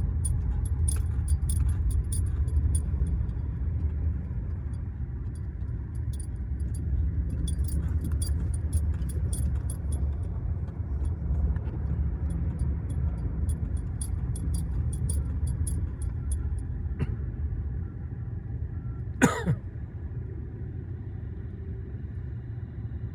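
Car driving: a steady low road-and-engine rumble, with light, rapid high clicking and jingling through most of the first seventeen seconds. About nineteen seconds in comes one brief sharp sound that falls quickly in pitch, the loudest moment.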